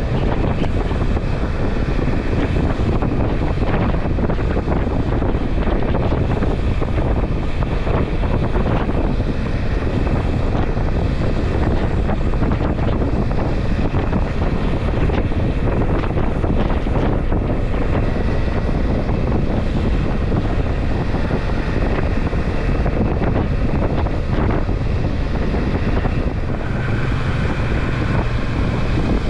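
Steady rush of wind buffeting the microphone of a motorcycle on the move, with the engine and road noise buried beneath it.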